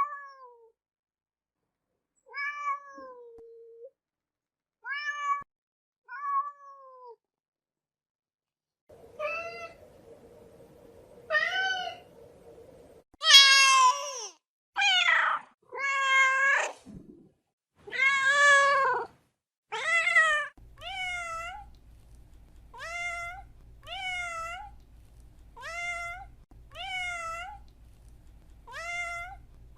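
Domestic cats meowing in a string of separate takes. There are a few short meows with pauses between them, then longer, louder meows near the middle. After that comes a run of short meows about once a second over a low steady hum.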